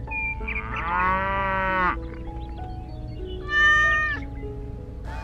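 Animal-call sound effects over a plucked background melody: a drawn-out call about a second and a half long, then a shorter, higher cat meow about three and a half seconds in.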